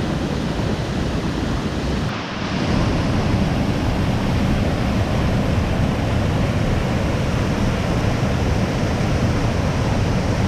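Steady rush of falling water from a waterfall. It briefly dips about two seconds in, then carries on a little louder.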